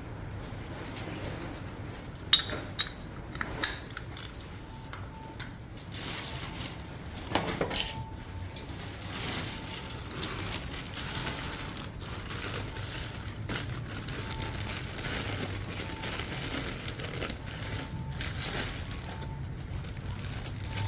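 Several sharp metallic clinks about two to four seconds in and another near the middle, over a steady low hum and faint hiss.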